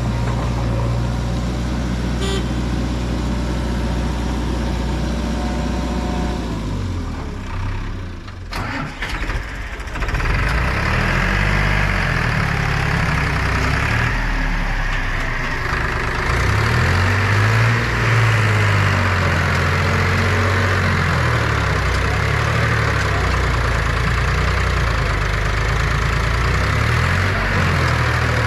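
Heavy diesel machinery engine running steadily, then dropping away about seven seconds in; after a short lull it runs again with its pitch rising and falling repeatedly as it is revved up and down.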